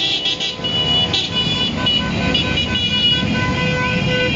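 Vehicle horns honking in many short, repeated beeps over the steady low running of many motorcycle engines.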